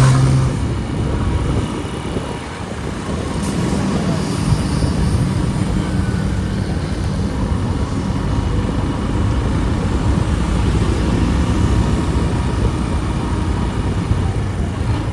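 Motorcycle engine running under way through city streets, a steady drone whose pitch shifts a little, with street traffic noise around it.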